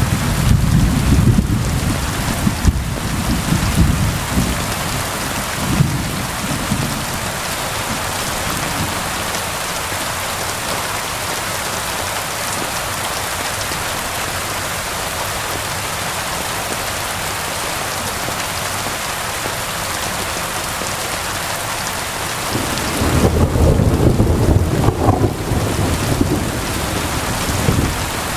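Steady heavy rain, with deep rolling thunder rumbling through the first few seconds and again near the end.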